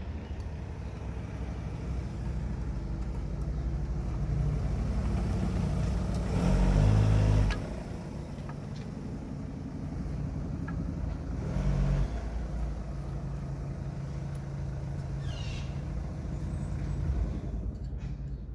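Motor vehicle engine running, with a louder swell about seven seconds in and a shorter one about twelve seconds in.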